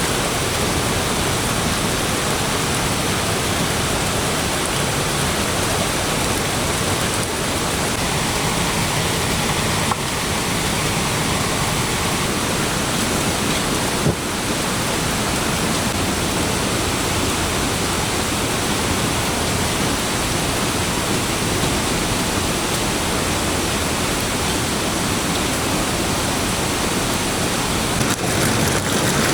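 Heavy rain falling steadily and loudly, with one brief knock about halfway through.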